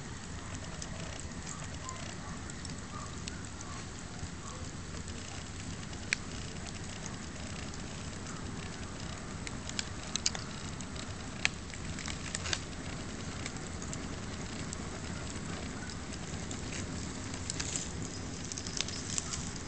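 Yamaha TDM900 motorcycle riding at a steady speed: a low, even engine drone mixed with wind noise, with scattered sharp clicks, most of them in the second half.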